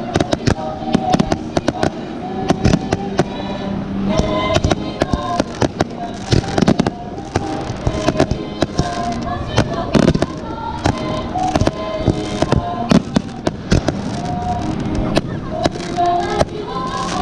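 Fireworks bursting in rapid, dense succession, sharp bangs and crackles one after another. Music with a clear melody plays underneath them.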